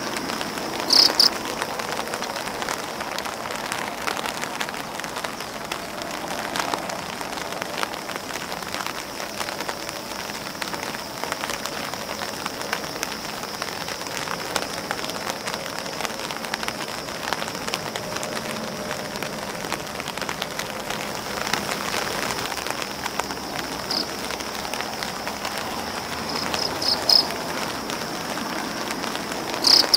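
Steady rain pattering on grass leaves and an umbrella. A few brief, sharp high ticks stand out above it, about a second in and several times near the end.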